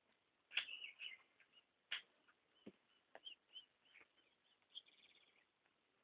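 Wild birds calling: a scattering of short, high chirps and call notes, the strongest about half a second and two seconds in.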